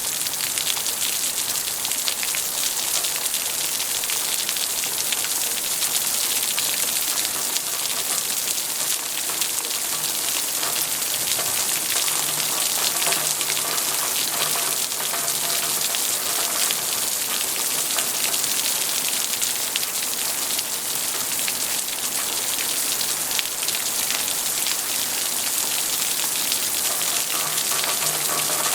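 Steady rain falling and pattering on a surface, an even dense hiss of many drops.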